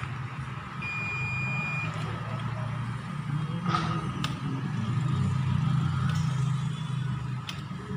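A multimeter's continuity buzzer gives one steady high beep lasting about a second, about a second in: the probes are across a shorted line. A steady low hum runs underneath, with a few light clicks later on.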